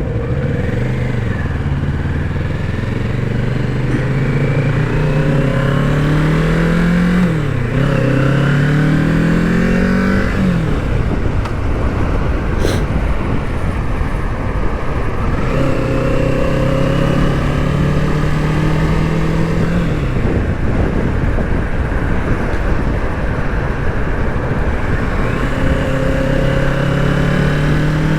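Kawasaki Z650's parallel-twin engine pulling through the gears: its note rises and drops back at each upshift several times, holds steady for a few seconds in the middle, then rises again near the end, over a constant rush of wind and road noise.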